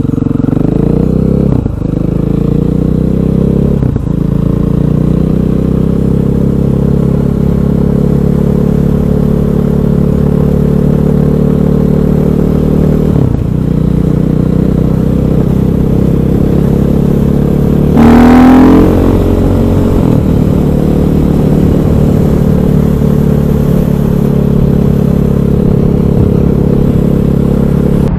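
KTM 500 EXC single-cylinder four-stroke supermoto engine running under way, its pitch holding and briefly dropping at a few gear changes. About eighteen seconds in there is a short louder surge with a sweeping pitch.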